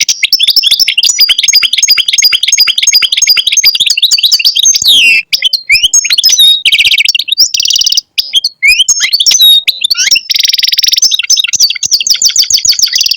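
European goldfinch singing: a fast, continuous twittering song of rapid repeated notes, quick trills and sweeping notes, with two brief pauses.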